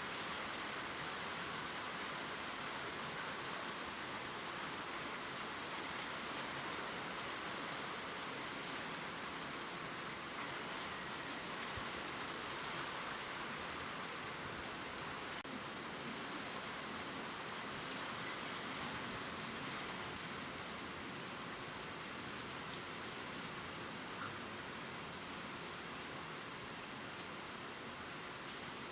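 Gentle steady rain falling on leaves: an even hiss with fine scattered drop ticks.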